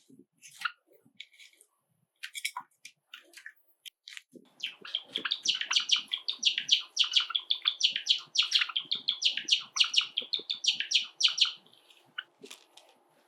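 Java sparrow singing: a few scattered chirps and clicks, then from about four seconds in a long, fast run of high chattering notes lasting about seven seconds.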